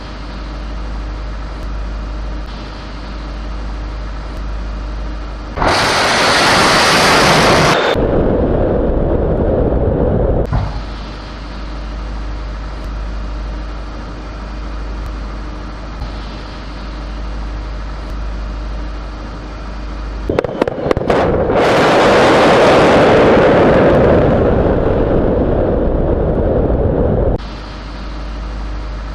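Two explosion sound effects over a steady low drone. The first bursts out about six seconds in and dies away over several seconds. The second comes about twenty seconds in: a few sharp cracks, then a longer blast that cuts off suddenly.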